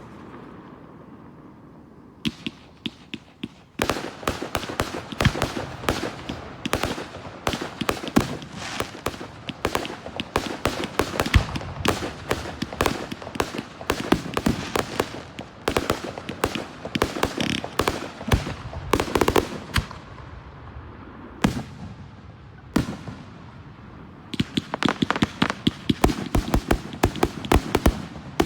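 Aerial fireworks exploding in rapid, overlapping bangs and crackles, thinning out for a few seconds near the middle before a dense volley resumes near the end.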